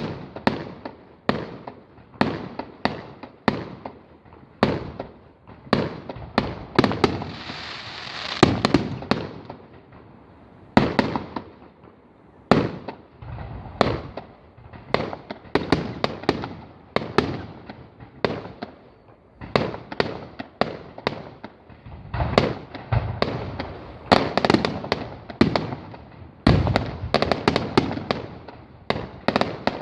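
Fireworks display: aerial shells bursting in quick succession, several bangs a second, with a stretch of crackling hiss about a third of the way through.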